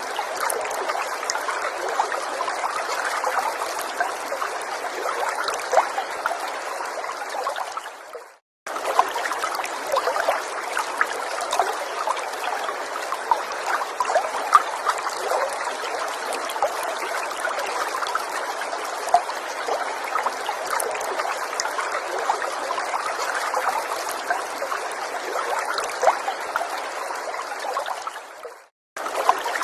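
Small forest stream trickling and babbling over stones, a steady rush dotted with small splashes. The sound fades out to a moment of silence about eight seconds in and again near the end, then starts up again abruptly, like a loop being restarted.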